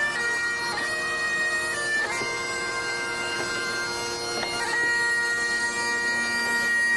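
Biniou braz (Breton great bagpipe) with bombarde playing a tune: held melody notes changing every second or so over a steady drone.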